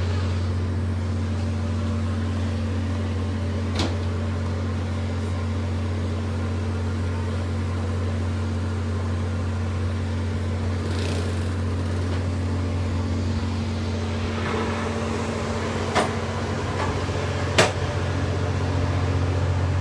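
Steady low machinery hum with sharp knocks, one about four seconds in and two near the end.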